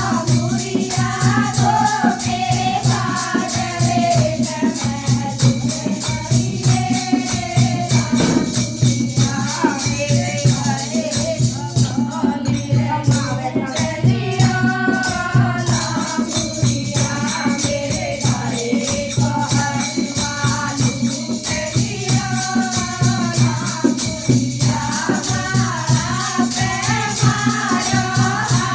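Languriya bhajan, a Hindi folk devotional song, sung over a fast, even percussion beat with jingling, rattling strokes.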